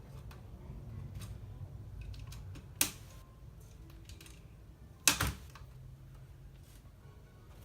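Small plastic LEGO pieces being handled and snapped, faint clicks with two sharper plastic clacks, about three and five seconds in, over a low steady hum.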